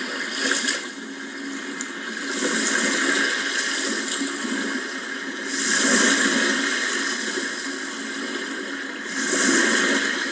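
Sea waves washing in, the surf noise swelling and falling back three times, every three to four seconds, loudest about six seconds in.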